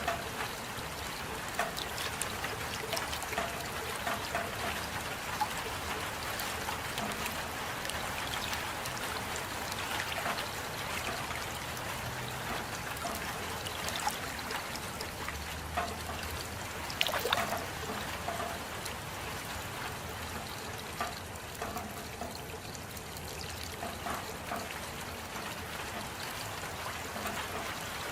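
Steady rain with water trickling and dripping, scattered louder drops and splashes, one of the loudest about two-thirds of the way through.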